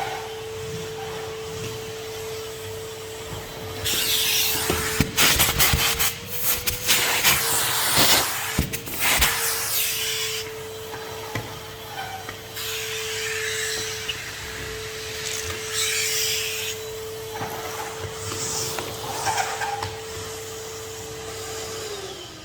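Henry HVR200 620 W vacuum cleaner running with a steady whine, while its nozzle rubs and scrapes across surfaces in a series of loud bursts. Near the end the motor's pitch drops as it winds down.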